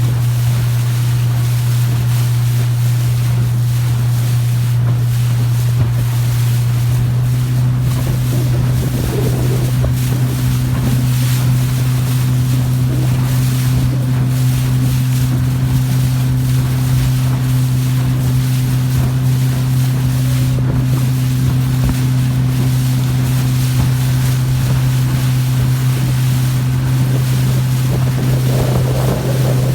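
Motorboat engine running at a steady pitch, with wind buffeting the microphone and water noise.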